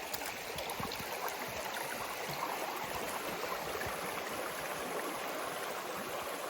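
A small creek's water running, a steady rush of flowing water.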